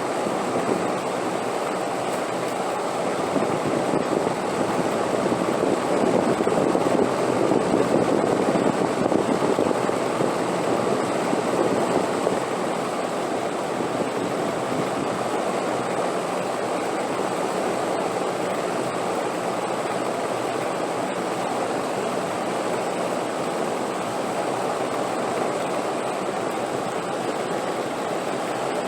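Steady rushing wind noise that swells louder for several seconds and then settles to an even level, with a thin, high steady whistle above it.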